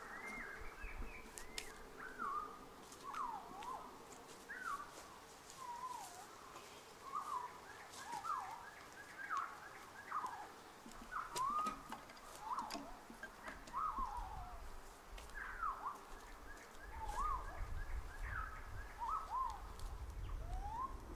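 A bird calling over and over: short chirps that bend in pitch, roughly once a second. Now and then comes a light knock of split firewood being laid in a steel grill.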